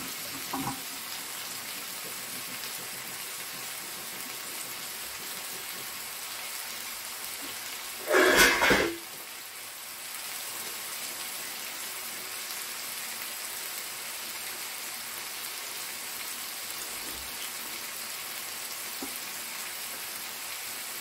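Chicken pieces frying in oil in an uncovered electric pot: a steady sizzle while the meat is browned before water goes in. One brief, loud burst cuts across the sizzle about eight seconds in.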